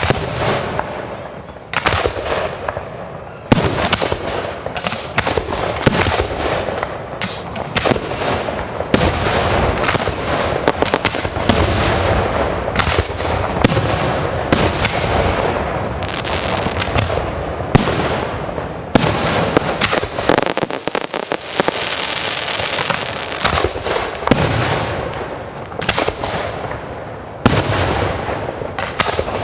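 Fireworks display with aerial shells bursting in quick succession, many sharp bangs over continuous crackling.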